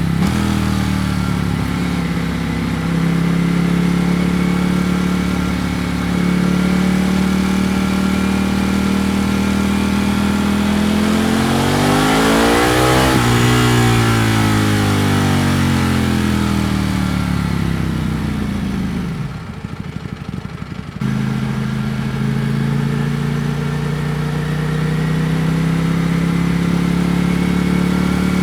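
Ducati Panigale V4 S's 1103 cc V4 engine under way at a steady pitch. About halfway through, the revs climb to a peak and then fall away. Around two-thirds of the way in it goes briefly quieter, then comes back to a steady cruise.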